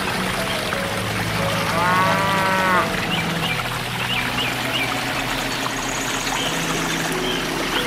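Water pouring steadily from a small pump's hose into a shallow pond. About two seconds in, a single moo lasting about a second stands out over the pouring.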